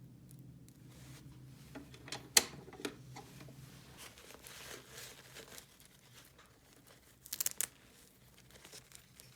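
Toy packaging being unwrapped by hand: crinkling and tearing, with sharp clicks about two and a half seconds in and a quick run of clicks near the end.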